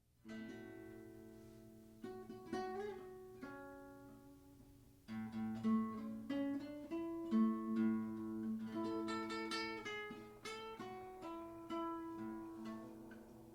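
Guitar played with a slide: a chord rings out, then single notes and chords are plucked, some sliding and wavering in pitch, and the playing grows busier about five seconds in.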